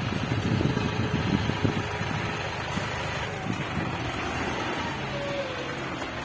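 Diesel engine of a 55 hp John Deere loader tractor running steadily with a dense low chugging.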